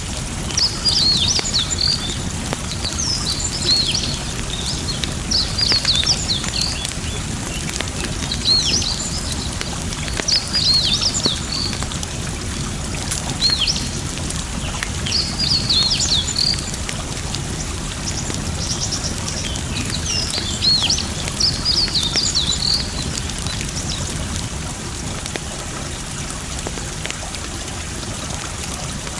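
Small songbird chirping in short high phrases every couple of seconds, stopping a little after twenty seconds in. Under it runs the steady rush of flowing water and the light crackle of a wood campfire.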